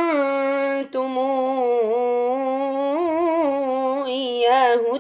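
A man's voice reciting the Quran in melodic tajweed style, with long held notes that waver and glide in pitch, and a hissing consonant just before the end.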